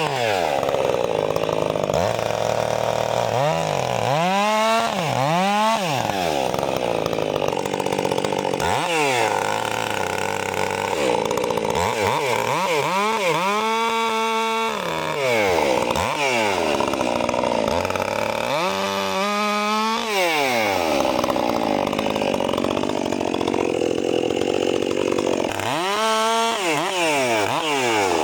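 Stihl MS 400 C two-stroke chainsaw running hard through wood, its engine pitch dipping and climbing back several times as the saw goes in and out of the cut, with steady stretches under load between.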